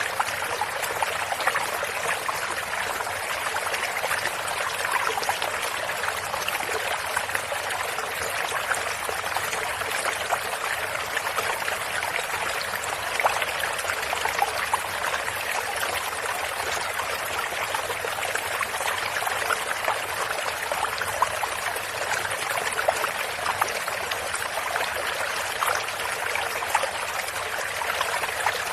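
Small stream of running water trickling and babbling steadily over stones, with many small splashes and no pauses.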